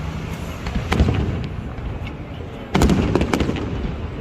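Aerial fireworks bursting: a loud bang about a second in, then a quick cluster of bangs and crackles near the end.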